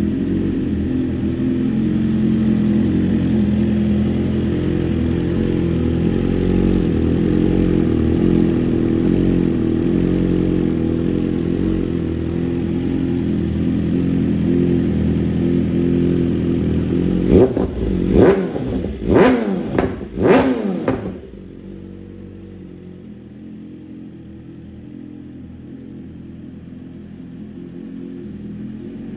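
BMW M1000RR inline-four engine idling with a steady note, then revved sharply four times in quick succession about two-thirds of the way through, each rev rising and falling. After the revs it settles back into a quieter idle.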